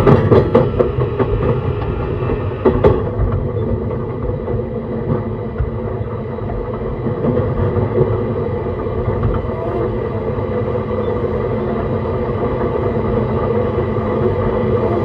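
E131 series 600 subseries electric multiple unit running at speed, heard from inside the car: a steady rumble of wheels and running gear, with a few sharp clicks over rail joints in the first three seconds.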